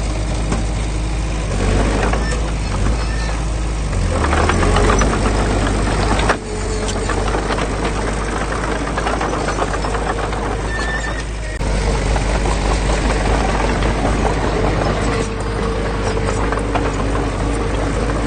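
Diesel engine of heavy earthmoving equipment running steadily with a mechanical rattle, changing abruptly about six seconds in and again near twelve seconds.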